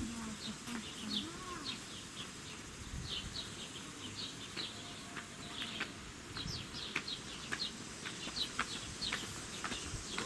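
Small birds chirping: many short, high chirps, several a second, overlapping one another over a low steady background.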